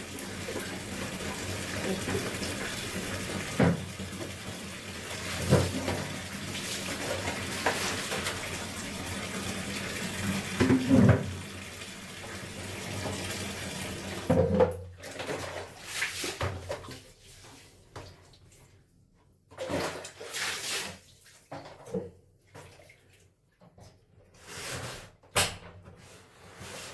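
Water running steadily from a tap, with a few knocks and splashes. About halfway through the flow stops, leaving scattered short splashes and handling sounds with quiet gaps between them.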